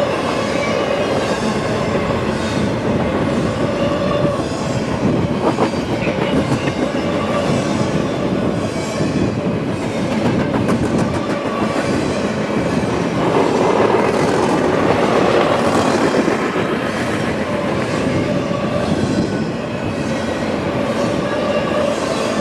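Freight train rolling past close by: a steady rumble and clatter of cars and wheels on the rails, with a faint steady ringing tone over it and a louder stretch about halfway through.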